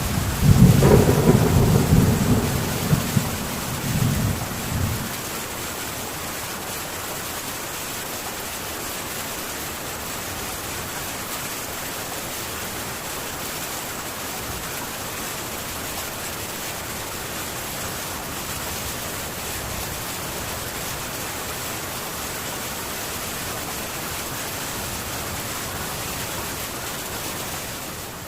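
Rain falling on a metal tin roof as a steady, even hiss. A loud, low roll of thunder rumbles in swells through the first five seconds, then dies away and leaves the rain alone.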